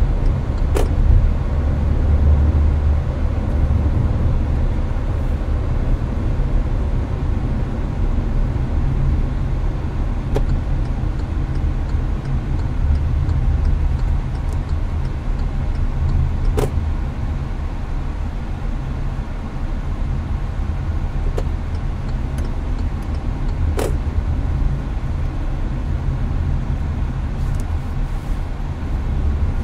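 Hyundai Avante cruising on an expressway, heard from inside the cabin: a steady low rumble of road and engine noise with the air-conditioner fan blowing. A few sharp faint ticks are scattered through it.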